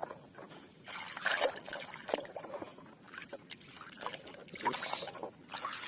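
Water trickling and splashing in irregular short bursts as a muddy toy vehicle is washed by hand.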